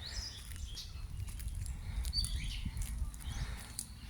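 Several small wild birds chirping, short high calls that rise and fall in quick succession, over a low steady rumble.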